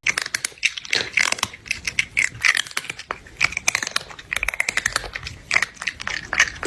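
Dense, irregular crunching and crackling, many quick clicks in close succession.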